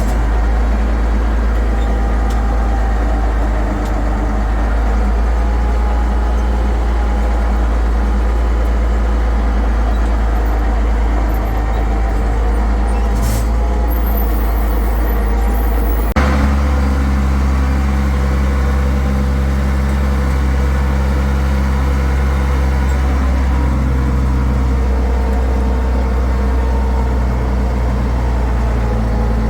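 International 1066 tractor's diesel engine running steadily. The engine note changes abruptly about halfway through.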